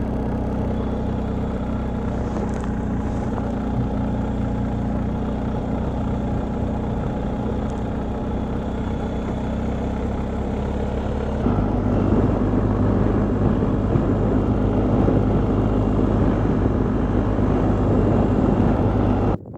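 Motorcycle engine running steadily while riding, with road and wind noise. About halfway through, the engine note steps up and grows louder, as when the bike accelerates or shifts gear.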